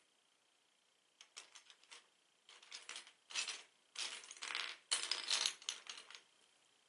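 Plastic Lego pieces clicking and rattling as they are handled, in bursts of quick clatter that begin about a second in, grow loudest near the middle and stop about a second before the end.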